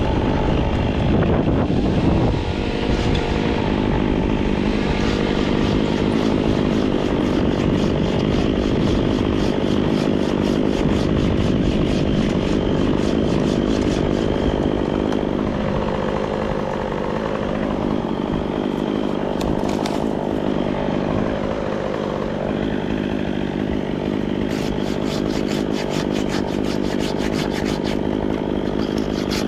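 Chainsaw engine running steadily under power.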